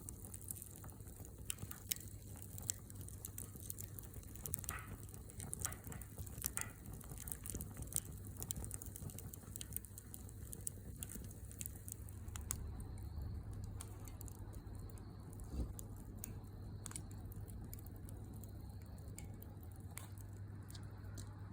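Wood fire crackling: irregular sharp pops and snaps, scattered unevenly, over a steady low hum.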